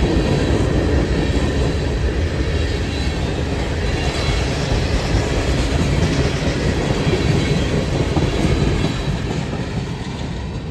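Freight train cars rolling past at speed: a steady, loud rush of wheels on rail with clickety-clack over the rail joints, easing slightly near the end.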